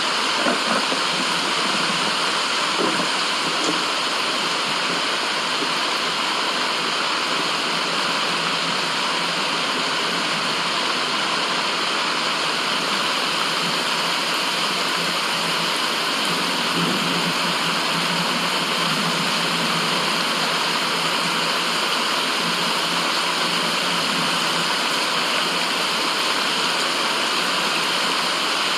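Steady, unbroken rush of running water, an even hiss with no pauses.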